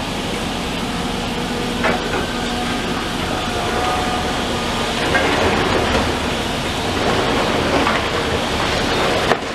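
Steady noise of heavy demolition machinery at work, with a few faint humming tones that come and go and several brief knocks.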